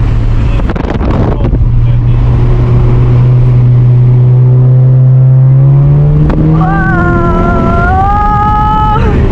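Turbocharged car engine under hard acceleration, heard from inside the cabin. Its drone holds, then rises steadily in pitch through a long pull. A sharp click comes about six seconds in, and a high, wavering tone runs over the engine near the end.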